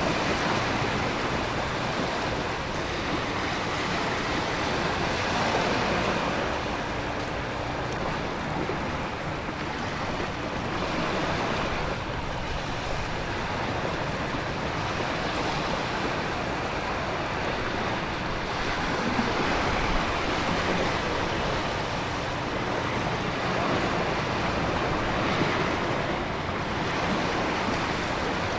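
Storm ambience of ocean waves crashing and heavy rain, with wind: a steady dense roar that swells and eases every several seconds, with no distinct thunderclaps.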